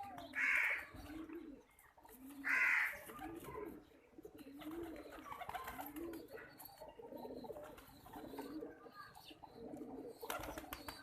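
Pigeons cooing over and over: low coos that rise and fall, one after another about every second. Near the start come two short, louder noisy bursts about two seconds apart.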